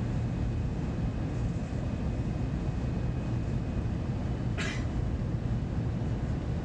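Steady low rumble of an Airbus A350-900 airliner in flight, with one short hiss about four and a half seconds in.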